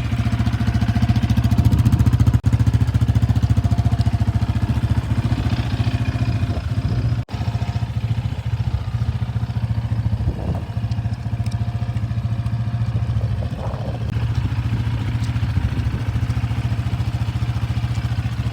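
Yamaha Raptor 700R's single-cylinder four-stroke engine idling steadily at an even, unchanging beat. The sound cuts out for an instant twice, about two and a half and seven seconds in.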